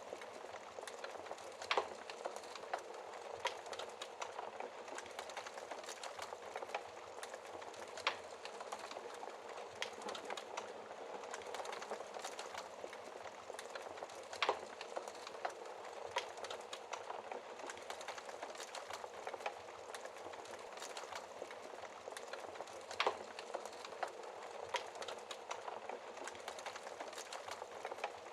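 Wood fire crackling in a fireplace: a steady soft hiss of burning with irregular sharp pops and snaps, a handful of them louder than the rest.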